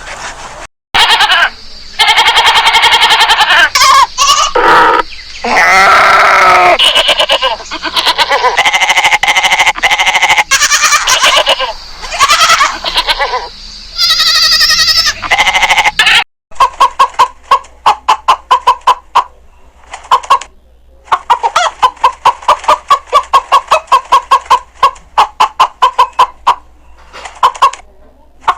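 Farm animals bleating, with several wavering calls, some overlapping. After a short break, a fast run of short repeated calls.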